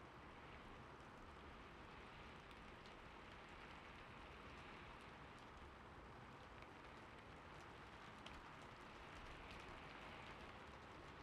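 Faint, steady rain falling, with a few scattered soft drop ticks.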